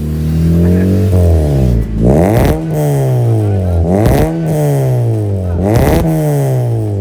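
Honda Civic FD's four-cylinder engine revved three times through a newly fitted aftermarket downpipe, resonator and muffler. Each rev climbs to a peak and falls back.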